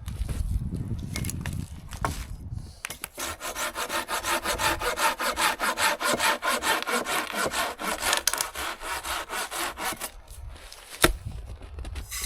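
Hand saw cutting wood with quick, even back-and-forth strokes, starting about three seconds in and stopping near the end, followed by a single sharp knock.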